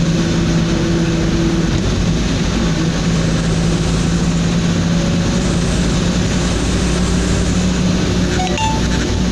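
Steady engine drone and road noise inside the cab of a truck driving at speed on a highway, with a constant low hum.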